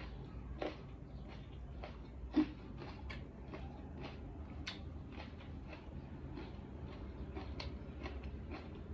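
A person eating, with irregular short clicks and smacks of chewing and one louder knock about two and a half seconds in, over a low steady hum.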